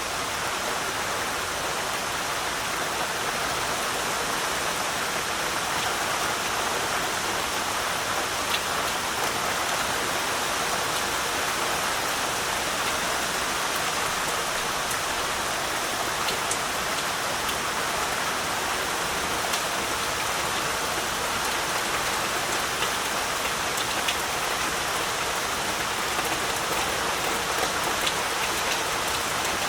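Steady heavy rain falling, a dense even hiss with scattered individual drops ticking on surfaces.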